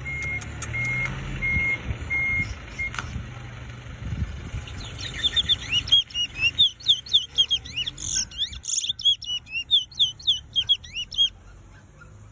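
A caged bullfinch sings a fast, twittering whistled song of many short chirping notes. It starts about five seconds in and stops about a second before the end. For the first three seconds, a vehicle's reversing alarm beeps about twice a second over a low engine rumble.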